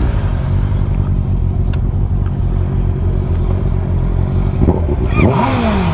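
A motorcycle engine with an aftermarket exhaust, running loud and steady, then blipped near the end, the revs rising and falling away.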